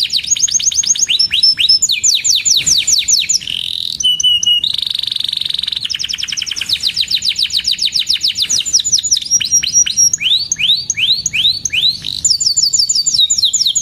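Domestic canary singing: fast trills of repeated downward-sweeping notes, about ten a second, switching to a new phrase every second or two, with a steady held note near the middle.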